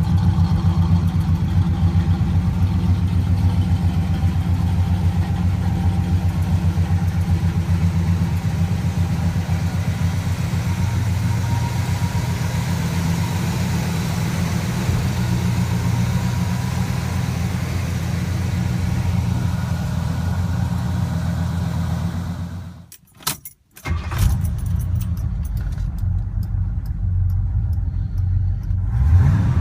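1970 Pontiac GTO Judge's V8 engine running steadily at idle, with a deep, even exhaust note. The sound drops out for about a second near the end, then the engine carries on.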